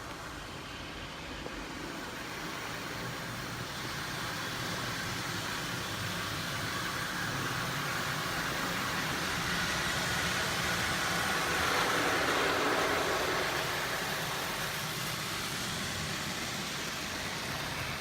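Belanger FreeStyler automatic car wash at work, heard from inside the car: a steady rushing of spray and machinery that swells, peaks about twelve seconds in, then eases a little.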